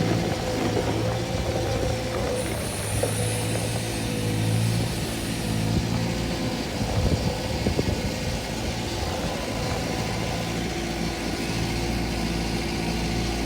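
A vehicle engine running steadily at low revs, a continuous low hum.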